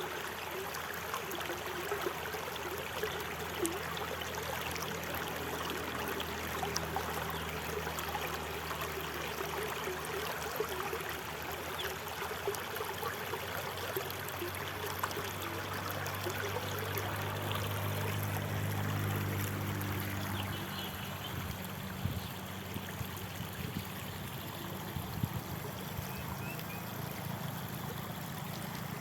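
Flowing water of a stream, a steady rushing and trickling, with a low steady hum underneath for most of it.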